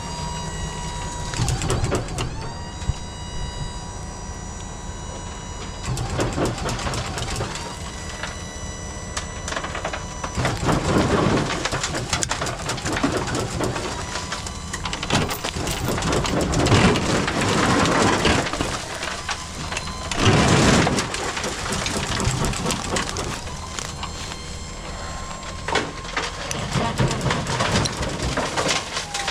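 Machinery running: a steady engine drone with a high whine of several tones, and louder rough, noisy surges about 11, 17 and 20 seconds in.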